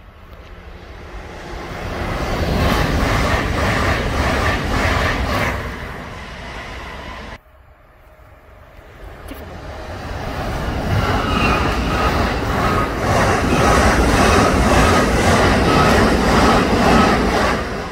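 Passenger trains passing at speed on the Great Western Main Line: a rush of wheels on rails that builds, peaks and eases off. It breaks off suddenly about seven seconds in, then builds again to a second loud pass near the end.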